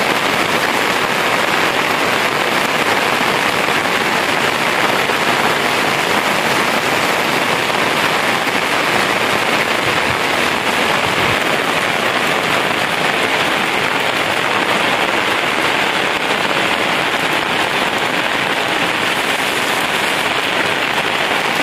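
Heavy, steady rain falling on a plastic tarp overhead and on the ground.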